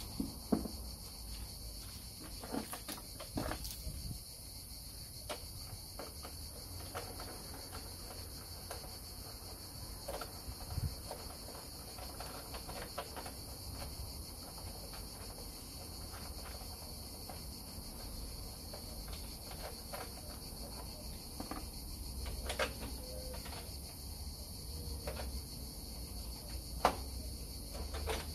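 Steady high insect trill, typical of crickets, with scattered light clicks and knocks.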